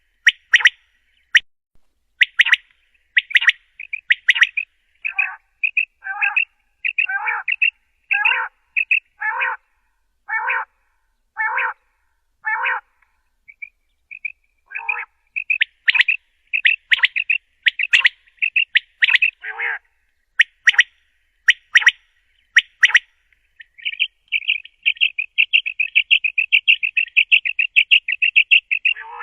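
Common quail calling: short, sharp, high notes repeated about once a second, breaking near the end into a fast run of rapid notes.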